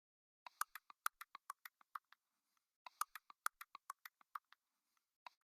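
Two quick runs of short, sharp clicks, about six a second and a dozen in each run, with one more click near the end.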